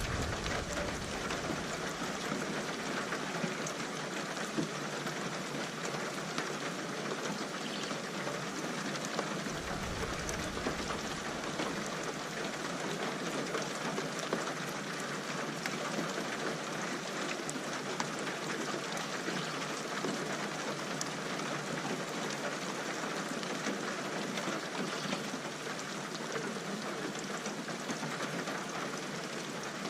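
Steady rain falling, an even hiss of many drops. A faint low rumble of distant thunder passes briefly about ten seconds in.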